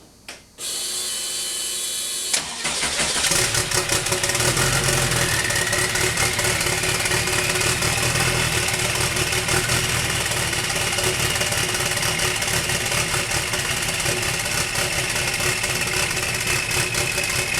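Porsche 912's turbocharged Type-4 air-cooled flat-four engine being started for the first time: the starter turns it for about two seconds, then it catches suddenly and settles into a steady idle, with a high whine that rises slightly a few seconds after it catches.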